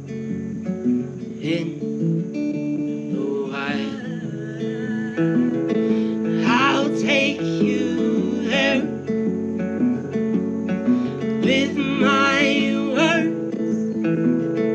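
Live song with a strummed acoustic guitar and a singer's voice, with long, wavering sung notes at several points.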